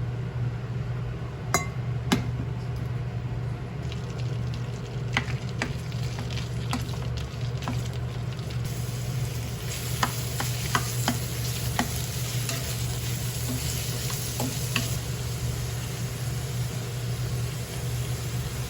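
Food sizzling in a pot as it is stir-fried for Korean beef radish soup, the spatula clicking against the pot now and then; the sizzle is loudest through the middle. A steady low hum runs underneath.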